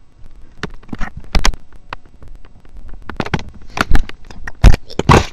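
An irregular run of sharp clicks, taps and scrapes very close to the microphone, a few of them loud knocks, the loudest a little under a second from the end.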